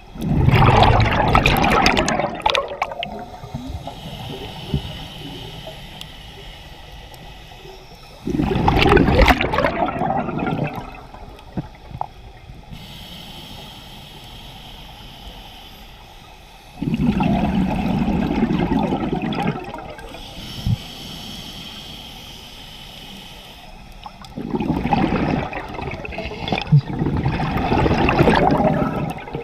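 Scuba diver breathing through a regulator underwater: four loud rushes of exhaled bubbles, about eight seconds apart, with quieter stretches between them.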